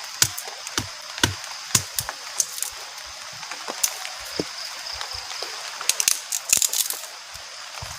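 Heavy rain with large drops falling irregularly onto a shelter roof or tarp, as sharp taps over a steady hiss. The taps come in a dense flurry about six seconds in.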